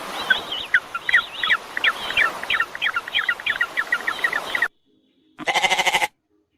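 Birds chirping in a rapid run of short calls, about four or five a second, that stops abruptly near the end. After a brief gap comes one short pitched animal call.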